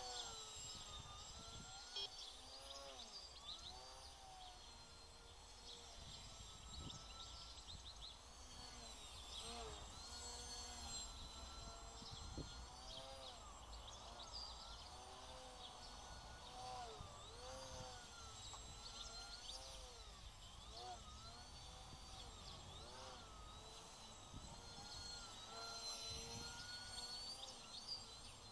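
FPV quadcopter's electric motors whining, their pitch swooping up and down constantly as the throttle changes, with a low rumble of wind underneath.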